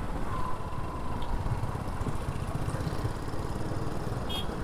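Single-cylinder engine of a 2019 Royal Enfield Classic 350, the older pre-J-series engine, running steadily while the bike is ridden, with a dense low thumping.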